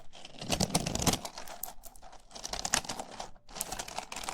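Small wooden pieces clacking and rattling together in hands close to the microphone, a dense, irregular run of clicks.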